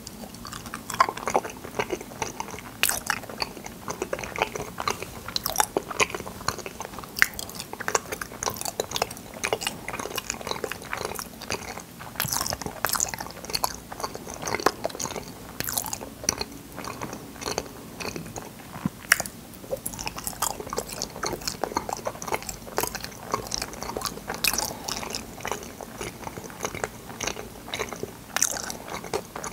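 Close-miked chewing of fruit yanggaeng, a firm Korean jelly sweet shaped into glossy balls: a dense run of sharp clicks and crackles from the mouth.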